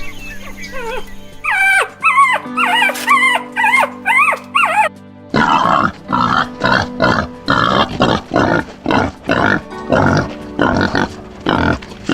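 Background music under animal calls: quick, high, bending chirps for the first few seconds, then a long run of short, rough, noisy calls repeating about twice a second.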